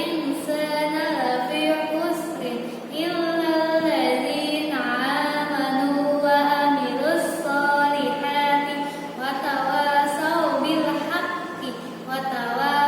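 A female voice singing a song over music.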